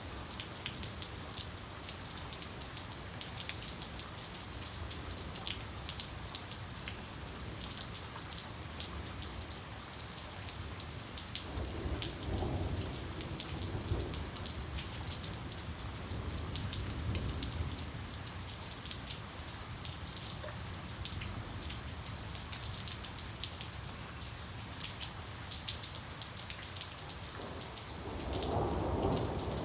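Steady rain falling on a surface, with many small drop ticks. Low thunder rumbles roll in about halfway through, and a louder rumble starts near the end.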